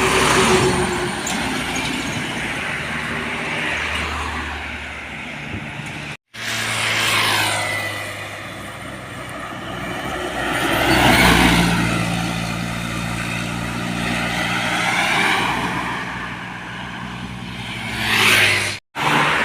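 Road vehicles driving past one after another, each engine swelling and then fading with a falling pitch as it goes by. The sound cuts out abruptly twice, about six seconds in and just before the end.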